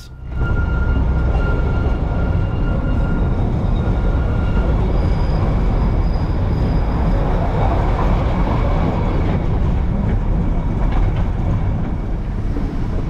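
Darjeeling Himalayan Railway narrow-gauge train running, heard from on board: a steady, loud rumble of the wheels on the track. A faint, thin high squeal runs through the first few seconds.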